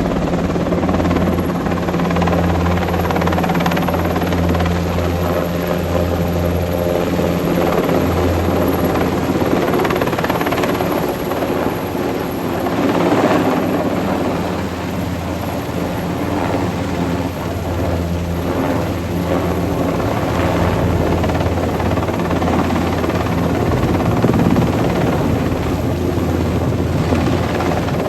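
Military helicopter in flight, its rotor and engine noise loud and steady.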